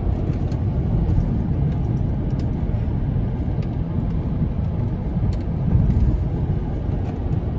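Steady rumble of a car's engine and tyres heard from inside the cabin while driving over rough, bumpy streets, with a few faint scattered clicks.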